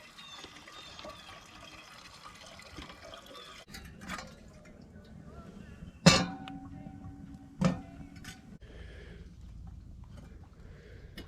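Water poured into a pot for about four seconds, then two sharp metal clanks about a second and a half apart, each ringing briefly, as camp cookware is handled.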